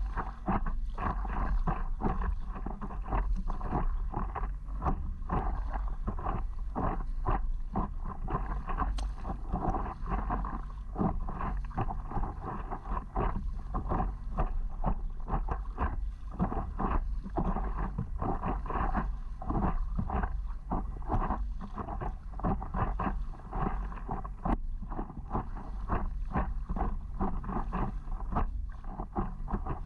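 Water splashing and slapping against a paddleboard in a continuous irregular patter, with a steady low wind rumble on the microphone.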